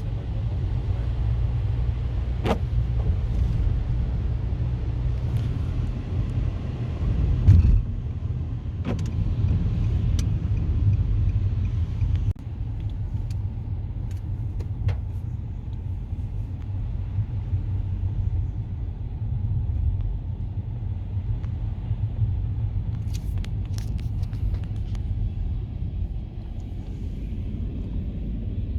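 Steady low rumble of a BNSF train passing, with a few scattered sharp clicks.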